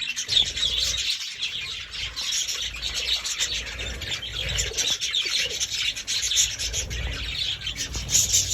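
Budgerigars chirping and chattering without a break, a dense stream of quick, short notes.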